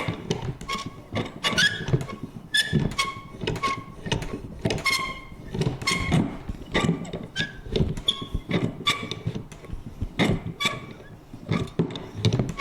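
Vintage paper punch being worked over and over: a quick run of irregular clunks, each with a short squeaky creak of metal.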